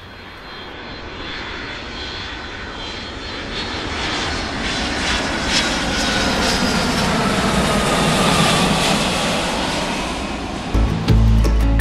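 Airplane flying past: its engine noise swells to a peak after about eight seconds, with a slowly falling whine, then starts to fade. Music comes in near the end.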